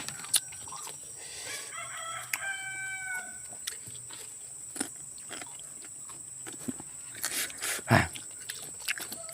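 A rooster crowing once, a held call about two seconds in, over a steady high whine. Scattered clicks, and a loud thump about eight seconds in.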